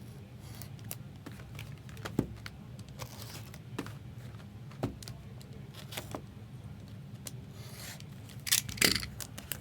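Trading-card boxes and their plastic wrap being handled and opened: scattered taps, scrapes and crinkling, with the loudest rustle of wrapper near the end, over a steady low hum.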